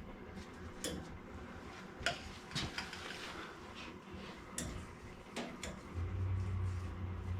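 Scattered light clicks and taps, five or so, then a low steady hum starts about six seconds in.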